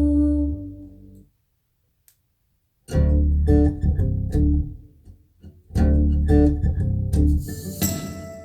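Recorded music played through B&W 802 loudspeakers and picked up by a phone's microphone. The last held note of one song fades out about a second in, there is a short silence, and then the next track starts with plucked guitar over a deep bass.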